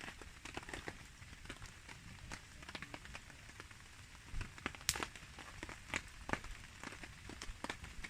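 Rain falling, with a wood campfire crackling and popping in irregular sharp clicks; one louder pop comes about five seconds in.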